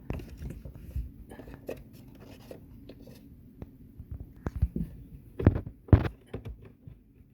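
Scattered light plastic clicks and knocks as the dishwasher's safety switch is fitted back into its place in the base, with two louder knocks near the end.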